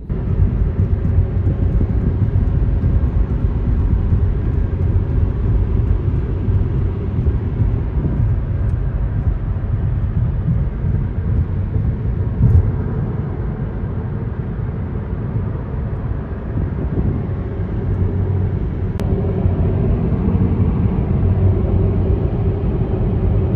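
Car driving on the road, a steady low rumble of road and engine noise heard from inside the cabin.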